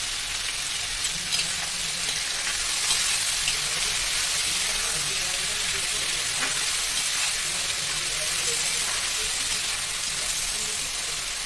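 Pointed gourd and potato pieces sizzling steadily in hot mustard oil in a metal kadhai, stirred with a metal spatula that gives a few faint scrapes and taps.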